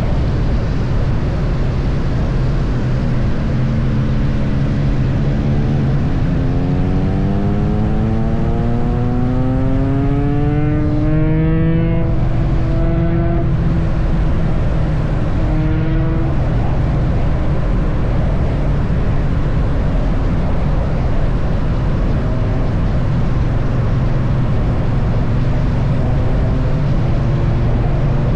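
Triumph Bonneville T100 parallel-twin engine running at highway speed under steady wind and road rush. About six seconds in, its note climbs steadily for several seconds as the bike accelerates, then breaks off and settles back to a steady drone.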